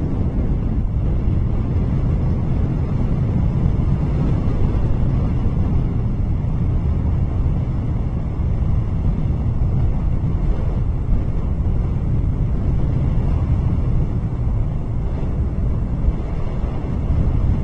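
Steady wind buffeting an outdoor nest-camera microphone, a continuous low rumble with no bird calls standing out.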